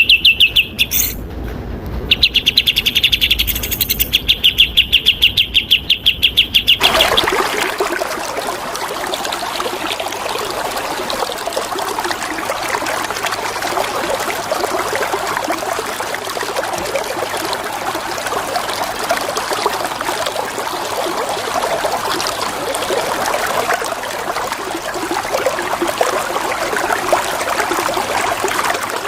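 Bulbul song: a fast run of high repeated chattering notes for about the first seven seconds, then cutting off. After it comes a steady rush of flowing water that runs on with no birdsong.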